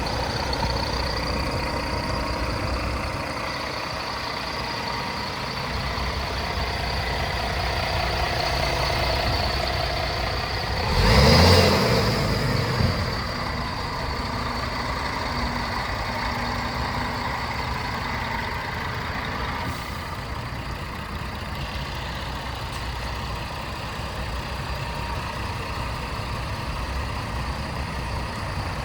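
Scania R450 truck's 13-litre inline-six diesel idling steadily, with one brief, louder rushing burst about eleven seconds in.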